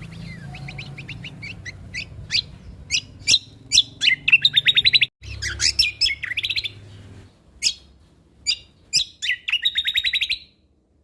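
Kecial kombok (cucak kombo) singing a fast, varied song of sharp chirps and rapid rattling trills, with a brief break midway.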